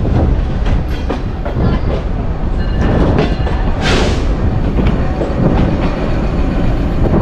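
Green Line Express passenger train running along the track: a steady low rumble with the clack of wheels over rail joints, and a short hiss about four seconds in.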